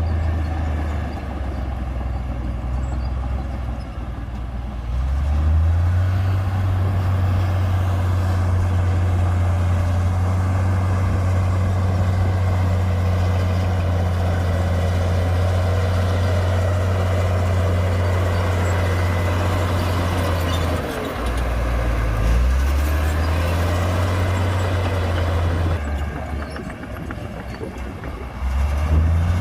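Komatsu D58P bulldozer's diesel engine working under load, its note falling and picking up again several times. It eases off near the start, comes back up about five seconds in, dips briefly about two-thirds of the way through, then drops again near the end before climbing once more.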